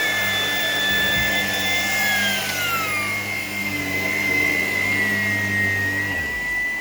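Shark PowerDetect cordless vacuum running, a steady high motor whine over a low hum. The whine drops in pitch two to three seconds in as the power eases off, and the low hum stops near the end.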